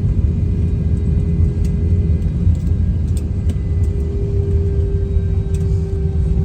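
Steady low rumble of an Airbus A321-200 as heard inside its economy cabin, with a steady mid-pitched hum over it and a few faint clicks.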